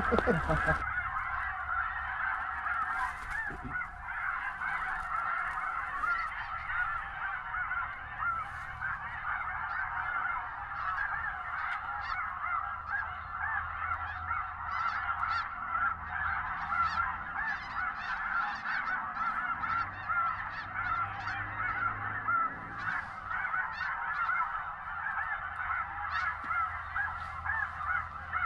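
A large flock of snow geese calling nonstop: a dense chorus of many overlapping high-pitched honks.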